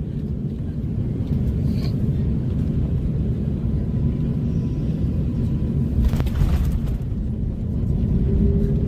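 Steady low rumble of airflow and running gear at an Airbus A350's nose landing gear, with a brief louder rush about six seconds in.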